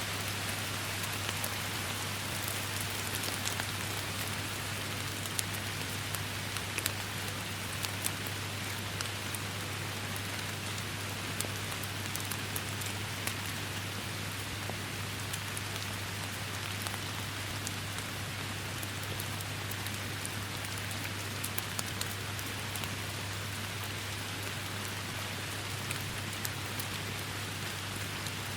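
Steady heavy rainfall, a constant hiss with many sharp individual drop impacts spattering on surfaces, over a steady low hum.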